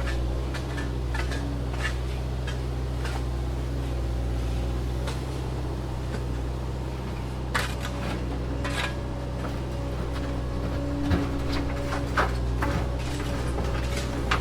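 A small motor hums steadily, with scattered sharp clicks and light knocks of parts being handled; the clearest knocks come in the second half.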